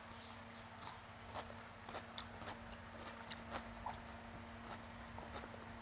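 Close-up eating sounds of rice and fish curry eaten by hand: wet chewing with irregular sharp mouth clicks and smacks, several a second.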